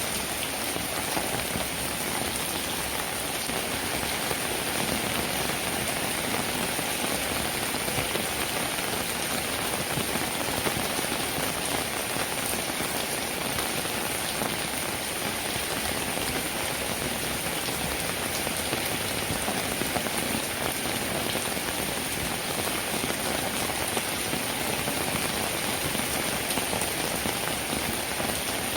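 Steady rain, a dense, even patter of drops with no let-up or change.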